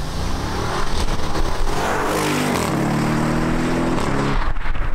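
Audi RS6 Performance's twin-turbo V8 accelerating hard, revs climbing and then held. It cuts off sharply near the end as the driver lifts, with a few cracks from the exhaust on the overrun.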